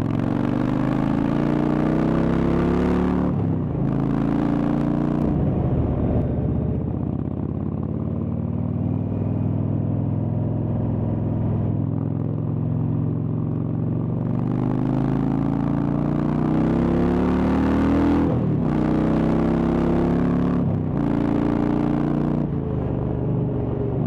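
Indian Chieftain's Thunderstroke V-twin through a Freedom Performance exhaust, accelerating on the road: the engine note climbs and breaks briefly at each gear change, twice near the start and twice about three quarters of the way through, with steady running in between.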